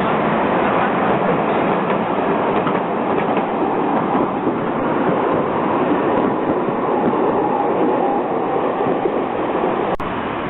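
Zagreb tram running along its rails with a steady, loud rolling rumble of steel wheels on track. The sound breaks off abruptly near the end.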